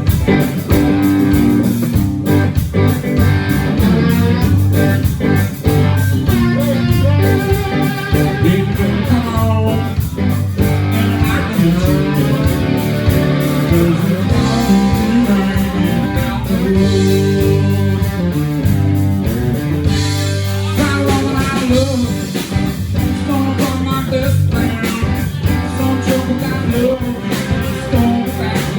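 Live blues-rock band playing a song, with guitar to the fore over a steady bass and drums.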